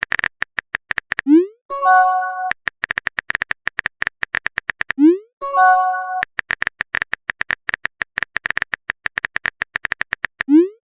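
Phone-texting sound effects in a repeating cycle: runs of rapid keyboard-tap clicks lasting a few seconds, each ended by a short rising pop as a message is sent. A brief chord-like notification chime follows the first two pops, as a reply arrives.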